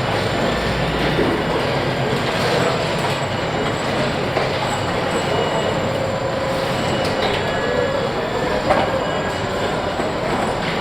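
Car-factory assembly-line noise: a steady mechanical rumble and hiss with a few faint clicks and clanks scattered through it.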